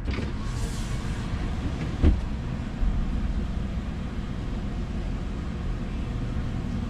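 Vehicle engine running low and steady from inside the cab as it rolls slowly into a shop bay, with a sharp thump about two seconds in and a smaller one a moment later.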